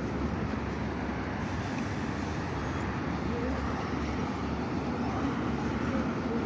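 Steady rumble of a moving road vehicle, engine and road noise running evenly without a break.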